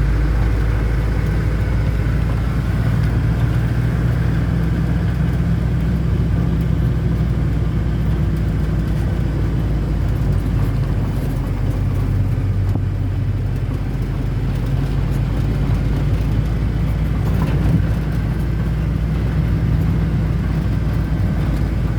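Car engine and road noise, a steady low drone with no breaks.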